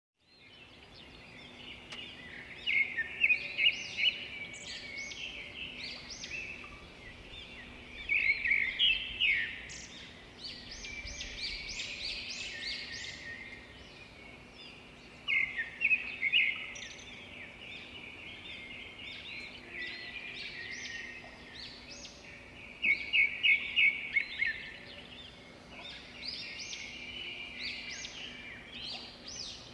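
Songbirds chirping and singing, with a burst of rapid repeated notes every several seconds, over a faint steady hum.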